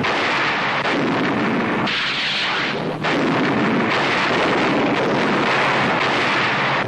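Newsreel battle sound: a dense, continuous rumble of artillery fire and explosions that swells and dips every second or so.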